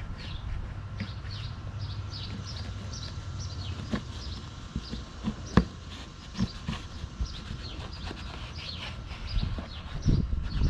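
Birds chirping steadily, a quick series of short downward-sliding chirps, with a few sharp knocks and low handling thumps mixed in.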